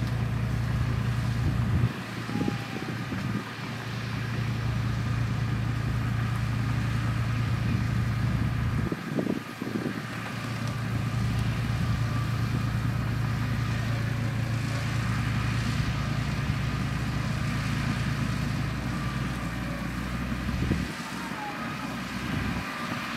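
Mitsubishi bulldozer's diesel engine running steadily with a low drone. The drone briefly drops away three times: about two seconds in, around nine seconds in, and near the end.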